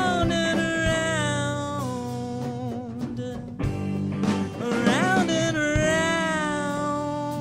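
Live funk-soul band jam: a lead melody of long held notes that bend and slide, in two phrases, the second starting about four and a half seconds in, over guitar and bass.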